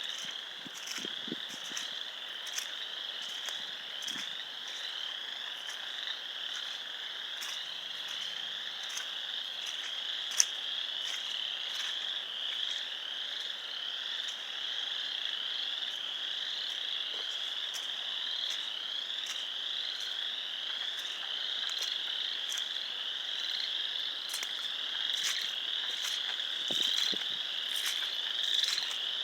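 Many frogs calling at once in a dense, steady, high-pitched chorus, with countless overlapping calls and no break. This is an early-spring breeding chorus.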